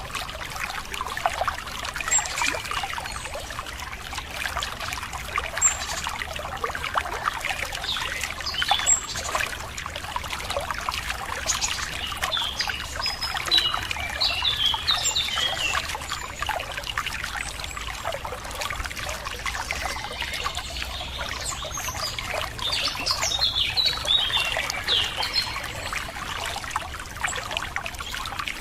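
Running water trickling and splashing steadily, with birds chirping over it: a short high note every few seconds early on, then quick runs of chirps in the middle and again near the end.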